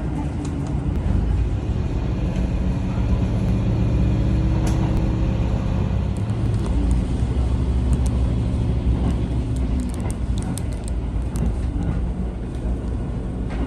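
Diesel railcar running along the line: a steady engine drone over a low rumble, with faint clicks here and there.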